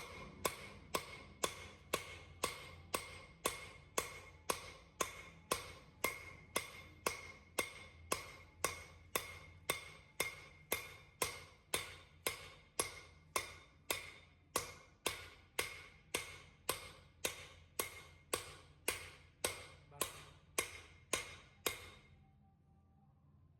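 Steady ticking, about two sharp, ringing ticks a second, which stops a little before the end.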